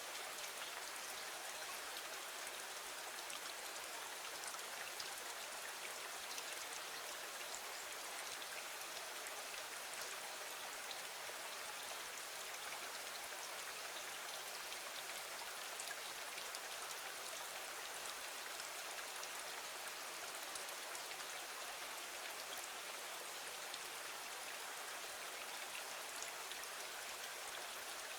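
Steady rain falling against a window, an even hiss of drops with no break or change in strength.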